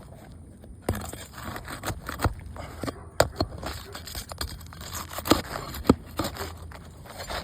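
Brittle asphalt shingles being pried up: scraping with irregular sharp cracks and crackling from about a second in, as the shingle seal breaks and the brittle shingles tear.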